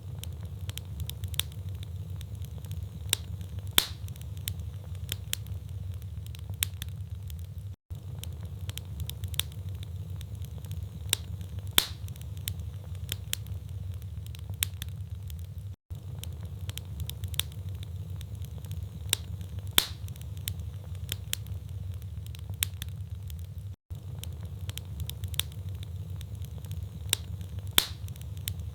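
Wood fire burning in a fireplace: logs crackling with scattered sharp pops over a steady low rumble of the flames. The sound cuts out very briefly about every eight seconds.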